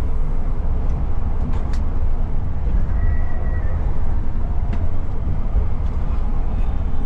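Steady low rumble of a moving Scania multi-axle coach, with engine and road noise heard from inside the bus.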